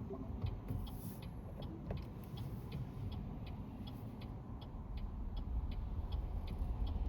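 Car turn-signal indicator ticking evenly, about two and a half ticks a second, over the low rumble of engine and road noise inside the cabin.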